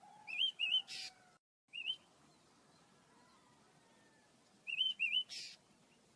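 Pet birds chirping: two short runs of quick, wavy chirps, one about a second in and one near the end, each ending in a short harsh, buzzy note.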